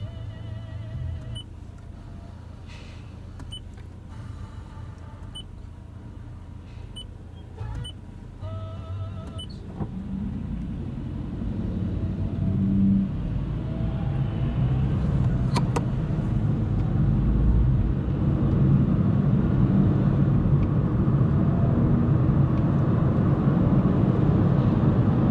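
Car heard from inside the cabin: quiet and steady at first, then from about ten seconds in the engine and tyre noise grow steadily louder as the car pulls away and gathers speed.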